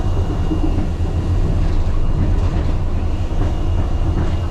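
Wuppertal Schwebebahn suspension railway car running along its overhead track, heard from inside the car: a steady low rumble with light clatter.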